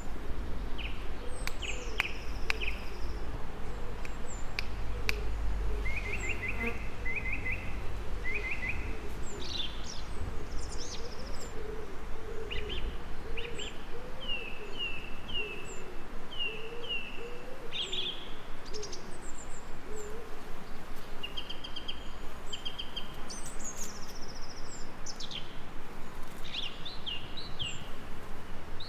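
Mixed birdsong: several birds repeating short chirps and trills, with lower wavering calls underneath, over a steady hiss of rain. A low rumble sounds in the first few seconds.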